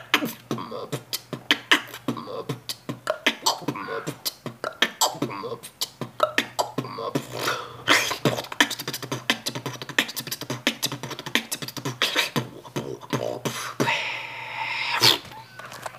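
Human beatboxing: a fast run of percussive mouth sounds, several hits a second, over a low steady hum. Near the end a drawn-out hiss leads into one loud hit.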